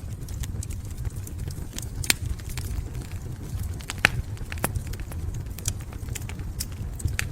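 Wood fire crackling: a low steady rumble with irregular sharp pops and snaps, the two loudest about two and four seconds in.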